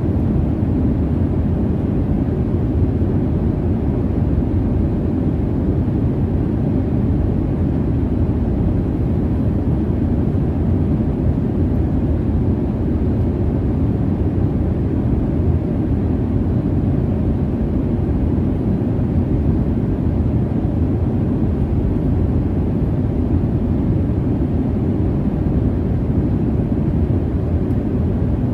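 Airliner cabin noise in flight: a steady, low, even rumble of jet engines and airflow with no changes.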